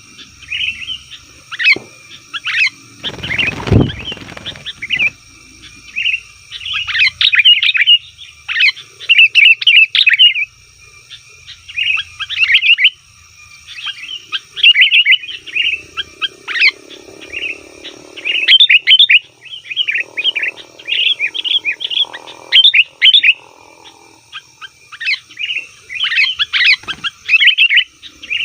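Sooty-headed bulbuls (kutilang) calling busily, several birds chattering. Short bright phrases follow one another every second or two with only brief gaps.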